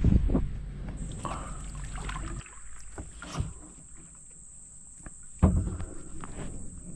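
Kayak being paddled: splashing paddle strokes and several hollow knocks of the paddle against the hull, the loudest about five seconds in.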